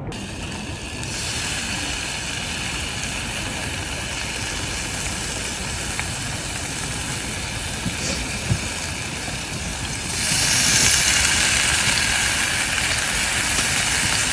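Strong wind blowing steadily, growing louder about ten seconds in.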